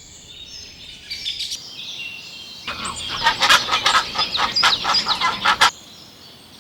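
Birds chirping and calling. High, thin chirps come first. About three seconds in, a louder run of rapid, closely spaced calls starts and then cuts off suddenly.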